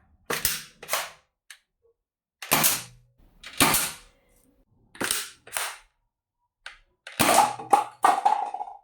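A series of sharp gunshot-like bangs, about nine in all, several coming in quick pairs; the last group comes fast, over a steady ringing tone near the end.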